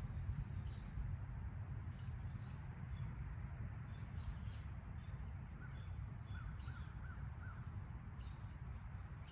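Wood fire burning in a fire pit with faint scattered crackles over a low steady rumble. About six seconds in, a bird gives a short run of about five calls, with faint chirps from other birds.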